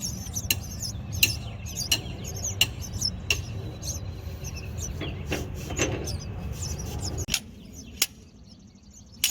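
Repeated metal-on-metal hammer blows, about one every 0.7 seconds, working a stuck diesel injector loose. A steady low rumble underneath cuts off about seven seconds in.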